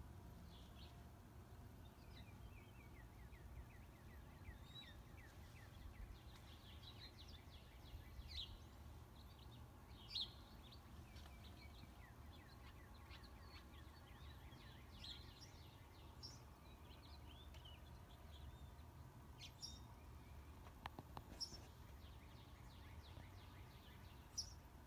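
Faint birds chirping, many short quick calls scattered throughout, over a low steady background hum.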